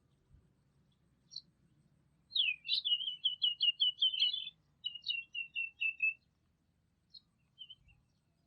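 A songbird singing: a single chirp, then a phrase of quick repeated notes that runs into a slower series of slightly lower notes, followed by a few scattered chirps.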